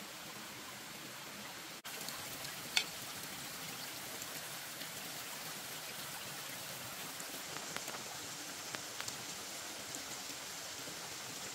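Steady patter of rain with scattered sharper drops. The sound cuts out for an instant about two seconds in, and a single louder click follows a second later.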